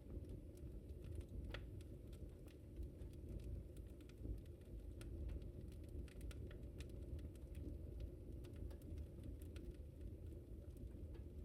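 Fire in a fireplace crackling: irregular sharp pops and snaps scattered over a low, steady rumble of burning.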